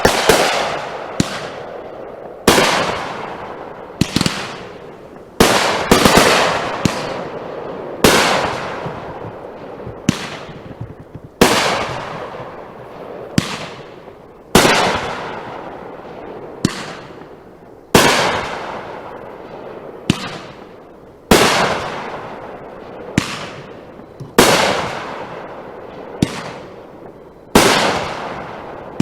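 Consumer fireworks going off in a steady sequence: sharp bangs every one to two seconds, each trailing off in a fading crackle and hiss.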